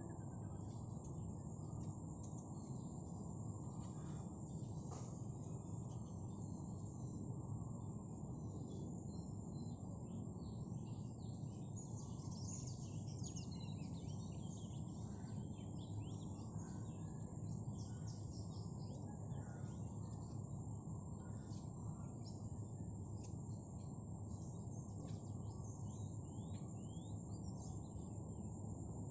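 Many small birds chirping in short, quick calls over a steady low background hiss. The chirping grows busier from about ten seconds in.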